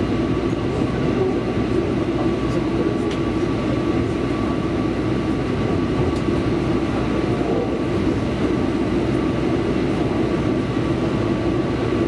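Electric train running, heard from inside the carriage: a steady rumble of wheels on the rails with a faint steady whine above it.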